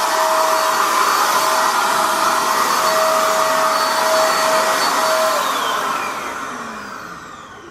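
Electric paint sprayer's turbine blower running with a steady airy rush and whine. About five seconds in it is switched off: the whine falls in pitch and the sound winds down and fades.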